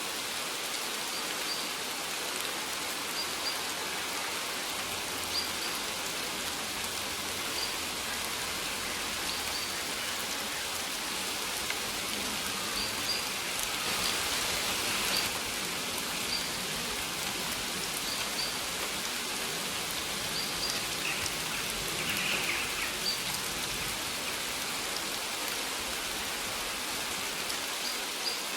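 Steady rain falling, an even hiss, with short high chirps of a small bird recurring every second or two.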